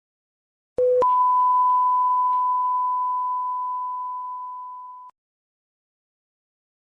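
Electronic beep: a brief lower tone jumps to a single steady higher tone that slowly fades over about four seconds, then cuts off.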